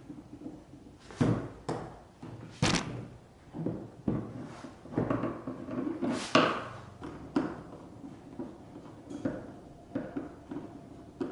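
A series of irregular knocks and thuds, like objects being handled and set down, a few sharp ones close together about a second and a half in and another loud one about six seconds in.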